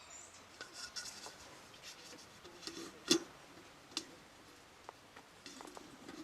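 Scattered light clicks and rustling, like objects being handled, with one sharp click about three seconds in and another about a second later.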